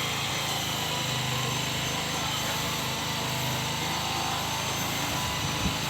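An engine running steadily: an even, low drone that holds the same pitch throughout.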